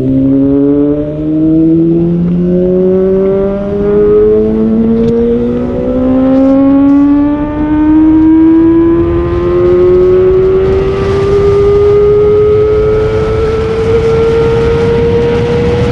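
Kawasaki ZX25R's 250 cc inline-four engine accelerating under way: revs climb and drop back at several upshifts, then rise in one long, steady climb. Wind rush on the microphone grows in the second half.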